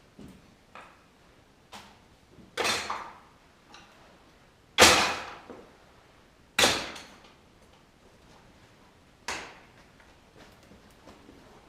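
A series of sharp knocks and clatters at irregular intervals, each dying away quickly; the loudest comes about five seconds in, with another strong one shortly after.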